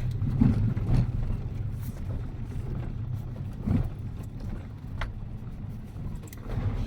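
Kia Picanto driving on a gravel road: a steady low rumble of tyres and engine, broken by a dull knock a little before the four-second mark and a sharp click about five seconds in.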